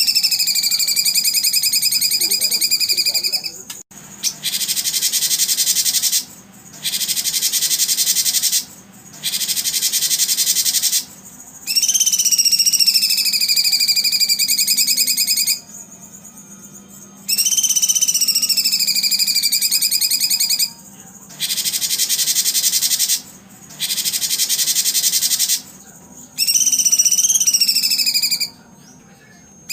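A recording of bird calls played as a loop for training contest songbirds. Calls of two to four seconds that slide down and then hold a steady pitch alternate with high, rapid buzzing trills, with short pauses between them.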